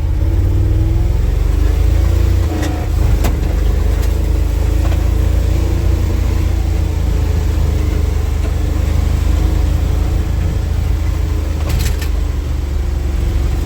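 1967 International 1200 pickup's engine running steadily, clattery enough to sound like a bucket of bolts, with a few light knocks or clicks.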